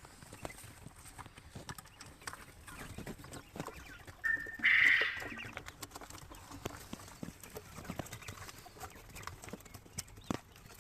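Quail moving and pecking in their pen: many light taps and clicks. A little before halfway comes one loud, short call, a brief steady note followed by a rougher burst.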